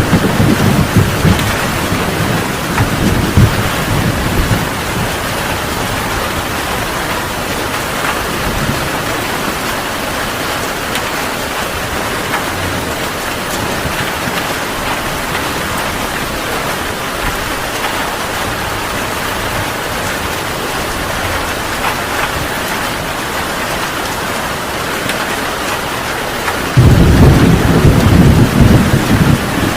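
Heavy rain falling steadily in a thunderstorm. A roll of thunder rumbles at the start and fades within a few seconds, and about three seconds before the end a sudden, louder rumble of thunder breaks out over the rain.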